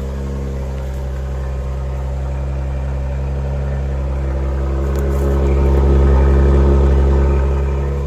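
BMW B58 3.0-litre turbocharged inline-six petrol engine of an Ineos Grenadier idling steadily just after a cold start at around 3°C. Its deep rumble swells louder a little past the middle, then eases back.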